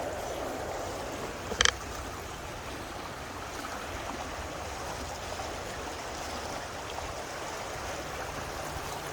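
Steady rushing of flowing floodwater. A brief sharp click is heard about one and a half seconds in.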